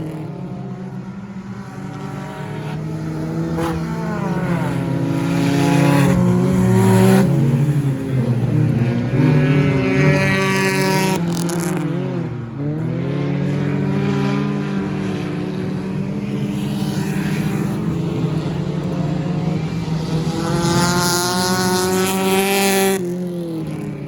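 Several stock car engines racing around an oval at speed, loud throughout. Their pitch rises and falls as cars pass, dipping sharply about halfway through and peaking again near the end.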